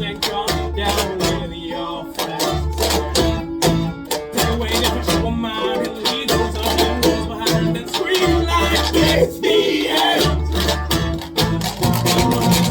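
Live folk band playing an instrumental passage: plucked strings over a steady beat, with low bass notes held about a second each.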